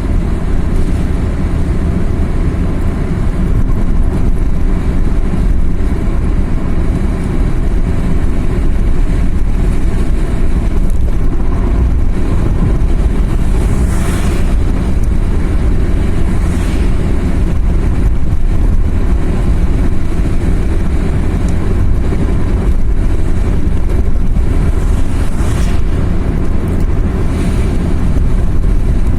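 A car driving on a mountain road, with a steady low rumble of engine and road noise. Brief hissing whooshes rise over it about halfway through and again near the end.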